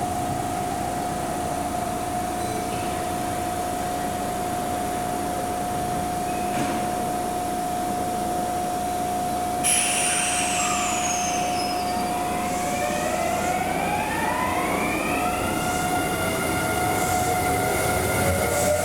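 Electric commuter train's motor inverter whining: a steady tone at first, then about 13 seconds in the whine rises in several parallel pitches and levels off as the train accelerates away from the platform. A brief high falling tone sounds about ten seconds in.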